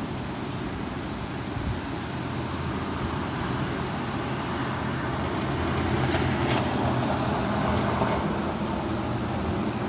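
Strong wind blowing outdoors, a steady rushing noise that swells about six seconds in, with a low steady hum underneath.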